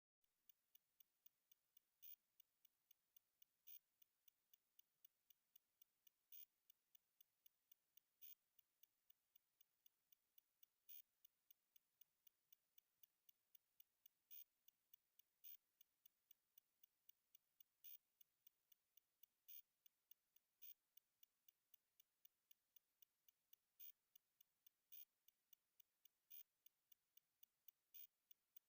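Near silence with faint, regular high-pitched ticks, about three a second, some louder than the rest.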